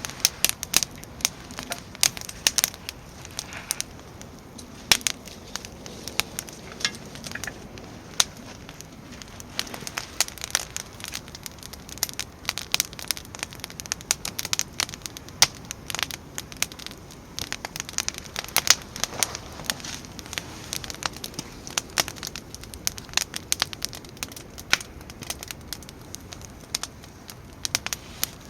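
Wood fire crackling in a fire pit, with frequent irregular sharp pops and snaps.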